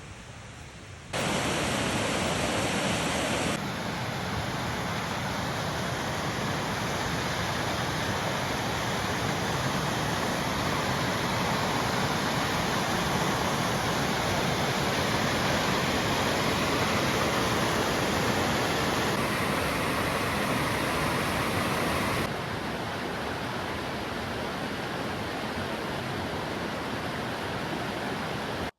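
Steady rushing noise that jumps abruptly in level and tone a few times.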